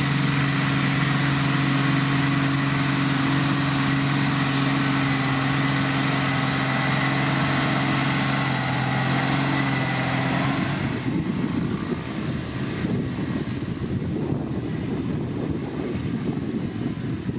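Diesel engine of heavy road-building machinery running steadily with an even hum. About eleven seconds in, the sound shifts to a rougher, slightly quieter rumble.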